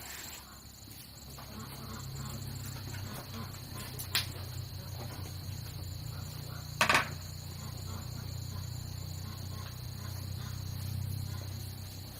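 Insects chirring steadily, a high continuous drone, with a low hum underneath. Two sharp knocks come about four and seven seconds in, the second one louder and slightly longer.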